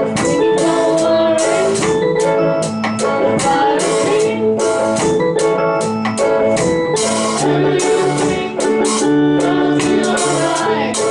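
A live band playing a reggae song: drum kit keeping a steady beat under guitar, bass and an organ-sounding keyboard.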